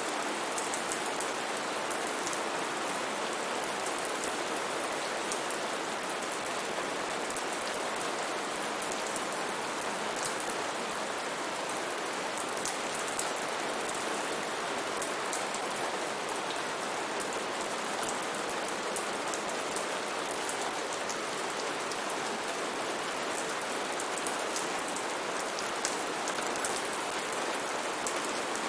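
Steady heavy rain falling on foliage and ground, a constant hiss with fine patter of individual drops.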